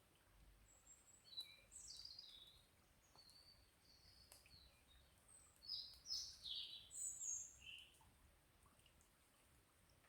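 A songbird singing two short phrases of quick, high chirping notes, one about a second in and a louder one around six seconds in, over faint scattered crackles from a campfire.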